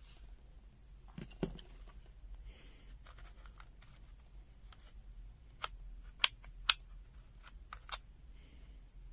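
Light handling noise followed by a series of sharp, short clicks, the loudest two close together a little past the middle, over a faint steady low hum.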